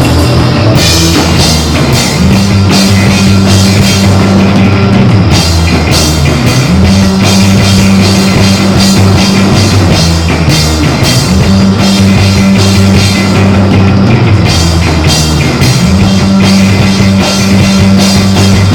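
Live rock band playing loud, with a drum kit beating a steady rhythm, a held bass line and distorted guitar.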